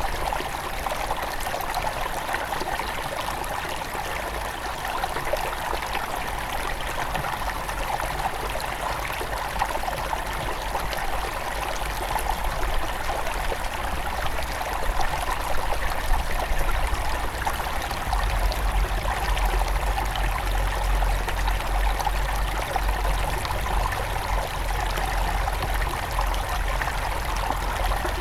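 Headwater stream of a forest river flowing steadily, a continuous rush of water with trickling. A low rumble beneath it grows stronger about two-thirds of the way through.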